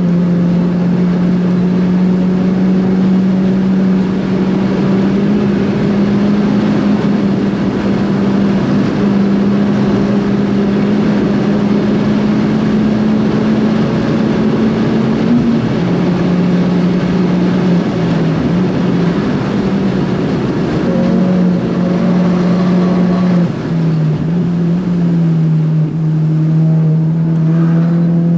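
Big-turbo Ford Fiesta ST engine under hard load at high revs on a fast lap, its pitch held mostly steady with small drops at shifts or lifts. There is a brief dip in level about two thirds through, and the revs climb again near the end.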